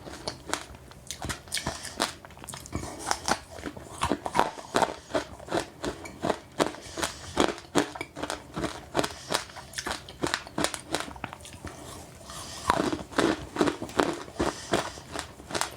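Close-up chewing of passionfruit with sesame seeds: a fast, uneven run of crisp crunches as the seeds break between the teeth, several a second, growing louder about two-thirds of the way through.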